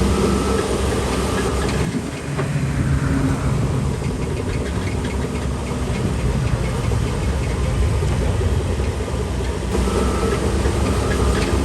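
Heavy diesel earthmoving machinery engines running steadily under load, with light clanking. The sound changes abruptly about two seconds in and again near the end.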